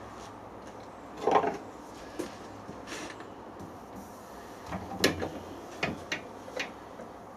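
A series of short knocks and clatters, like metal parts and tools being handled and set down on a workbench. The loudest is about a second in, and a quick cluster follows about five seconds in, over a steady low background hiss.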